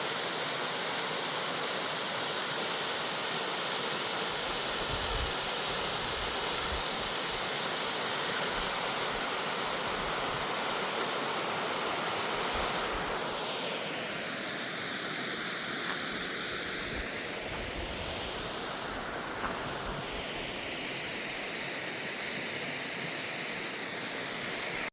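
Steady rushing water, a constant full roar without pauses, with a slowly sweeping, swirling shimmer in the middle.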